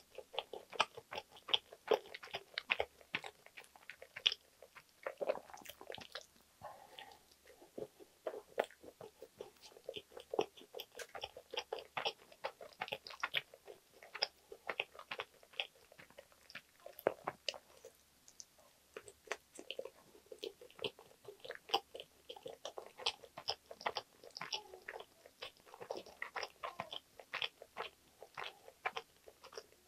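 Close-miked chewing and biting of a soft rye-bread ham and cheese sandwich: a continuous stream of small mouth clicks and smacks.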